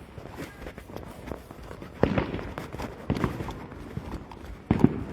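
Fireworks going off: three sharp bangs, about two, three and four and a half seconds in, each trailing off in a short echo, with small crackles between them.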